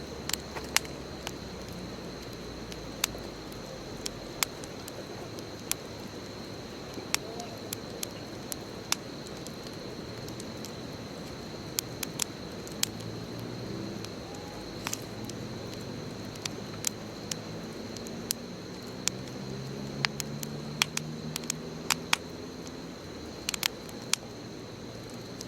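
Wood bonfire crackling, with irregular sharp pops and snaps over a steady hiss. A steady high whine runs underneath, and about halfway through a low droning hum comes in and rises slowly in pitch.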